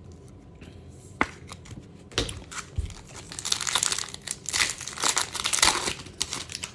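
A trading-card pack's foil wrapper being torn open and crinkled by hand: a single click about a second in, then a few seconds of irregular crackling and crinkling.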